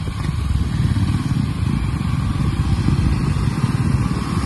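Single-cylinder adventure motorcycles running at idle close by, a steady low engine sound.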